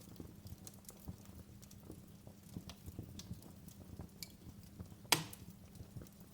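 Wood fire crackling in a fireplace: scattered small pops and ticks over a low rumble, with one loud sharp pop about five seconds in.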